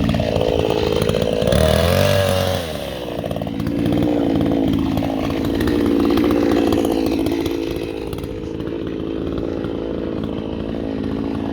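Chainsaw running at high revs while cutting into a tree trunk during felling. Its pitch rises and falls once about two seconds in, then holds steady under load.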